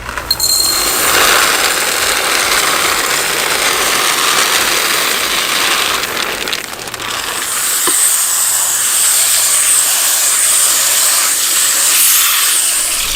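Food frying in hot oil: a loud, steady sizzle that starts abruptly and turns brighter and hissier in the second half.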